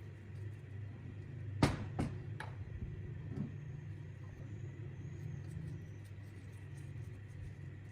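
Three sharp knocks about half a second apart, the first the loudest, over a steady low hum.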